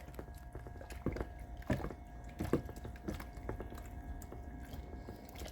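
Faint scattered clicks and scrapes of a utensil stirring freshly dissolved lye solution in a container, over a faint steady hum.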